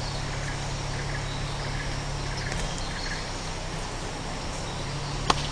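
Steady outdoor background noise with a low hum underneath and faint, repeated insect-like chirping, broken by a single sharp click near the end.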